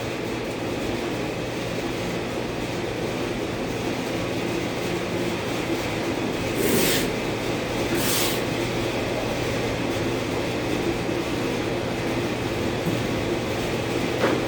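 Steady hum and rushing noise of shop equipment, with two short hisses about seven and eight seconds in.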